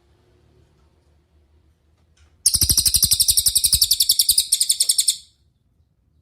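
Cililin songbird singing: a fast run of loud, high, repeated chirps, about ten a second, starting about halfway in and lasting nearly three seconds, with a brief break near the end.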